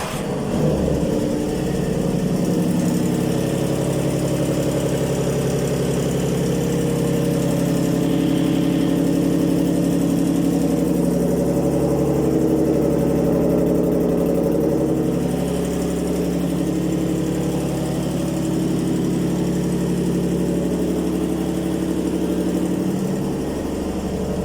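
Yamaha boat engine running at a steady idle just after its first start.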